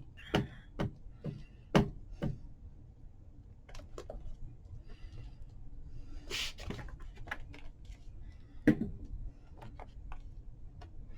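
Light knocks and taps of hands handling paper and craft tools on a table, several in quick succession at the start and a sharper knock late on, with a short papery rustle in the middle.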